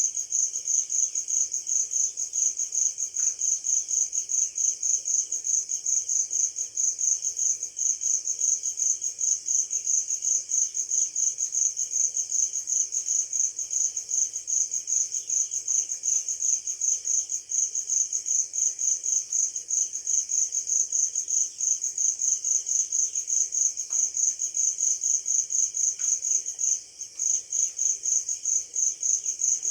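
An insect chirping steadily in a fast, even pulse, high-pitched, with a brief break about 27 seconds in.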